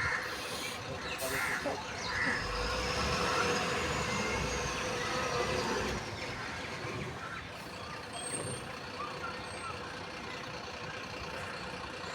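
Truck running as it unloads soil, with a louder stretch of low rumbling and hiss from about two to six seconds in.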